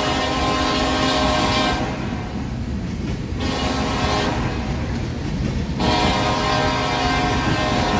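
Diesel locomotive air horn sounding over the rumble of a passing train: a steady horn chord breaks off about two seconds in, returns briefly around four seconds, then sounds again as a long blast from about six seconds.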